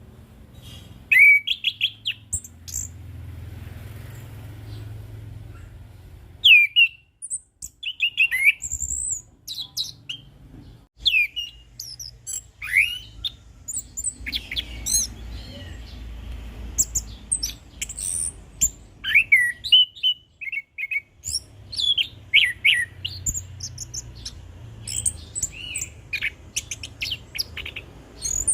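Orange-headed thrush singing its full, varied song: quick whistled notes, slurs and trills in phrases broken by brief pauses, over a faint low hum.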